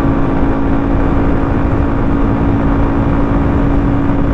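Forte 250-CKA motorcycle's single-cylinder carburetted engine running at a steady speed while riding, its tone holding constant over a haze of wind and road noise. It is running on a partly opened choke, which it needs because otherwise it bogs down.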